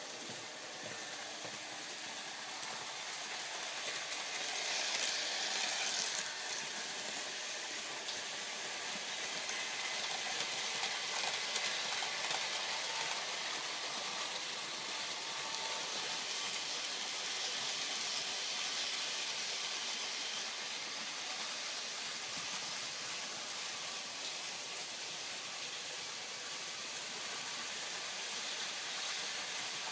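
Märklin model trains running on the layout: a steady high hissing whir of small electric motors and wheels on metal track, swelling briefly about five seconds in.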